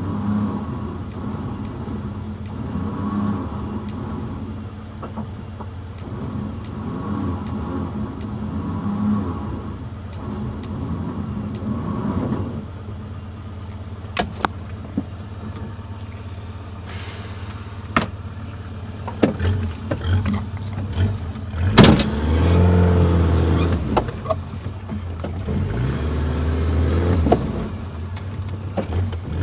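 Suzuki Jimny engine running and revving up and down unevenly, as when crawling through rough forest track. In the second half there are several sharp knocks and clicks; the loudest comes a little past two-thirds of the way through.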